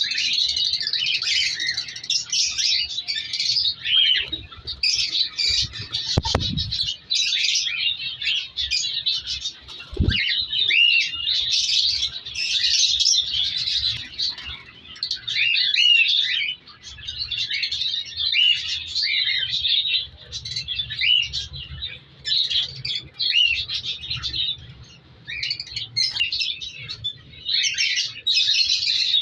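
Cockatiels chirping and calling, many birds at once, a dense continuous chatter of overlapping chirps and short whistles.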